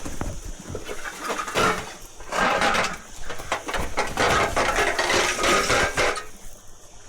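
Leafy Callistemon branches rustling, with twigs crackling and snapping as they are handled. The crackling is densest from about two seconds in until near the end.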